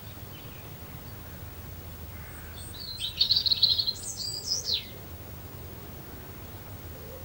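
A songbird sings one short phrase about three seconds in: a fast trill, then a quick run of notes falling steeply in pitch. A faint low rumble runs underneath.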